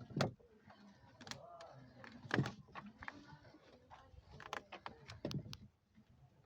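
Car door being handled and swung on its hinges: several knocks and clicks, the loudest about two and a half seconds in, with a faint wavering creak from the door hinges, which squeak only a little on this door.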